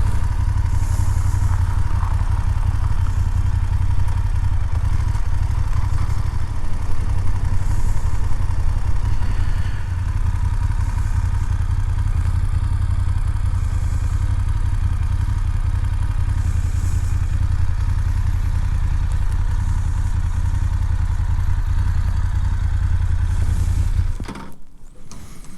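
BMW F 750 GS parallel-twin engine running steadily under way, with deep wind rumble. Near the end the sound cuts off abruptly to a much quieter background with a few clicks.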